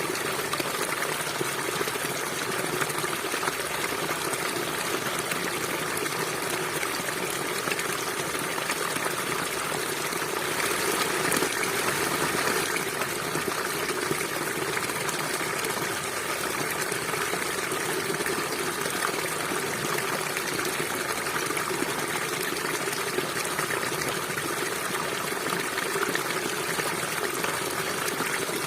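River water flowing in a steady, continuous rush, swelling slightly about ten seconds in.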